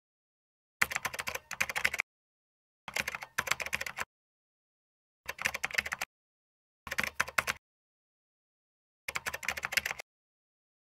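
Typing on a computer keyboard: five short runs of quick keystrokes, each about a second long, with pauses between, as single words are typed.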